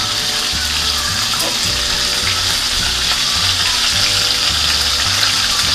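Chicken pieces pan-frying in oil in a skillet, a steady sizzle as they brown.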